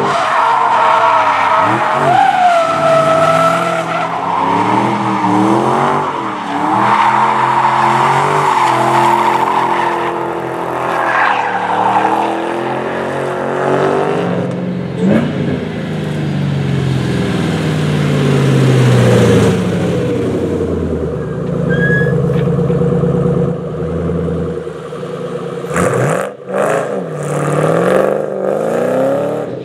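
Supercharged Ford Mustang GT V8 with a Borla exhaust revving up and down hard while drifting, its tyres squealing and skidding.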